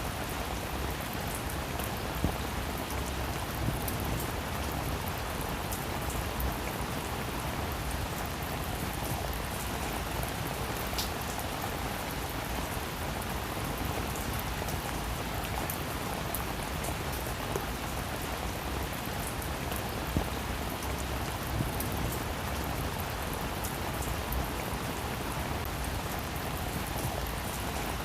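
Steady rain falling on a roof, an even hiss with scattered individual drops ticking sharply on the surface.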